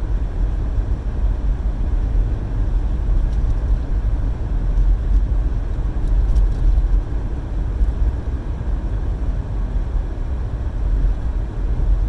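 Car driving at speed, heard from inside the cabin: a steady low rumble of engine and road noise.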